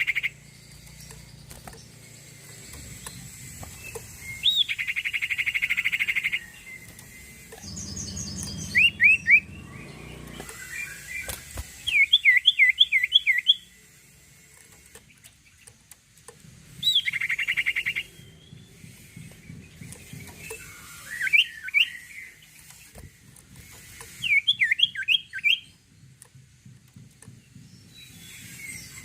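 A sirtu songbird in full song: rapid trills about a second and a half long alternate with quick runs of three to six sharp, sweeping whistled notes, repeated every few seconds.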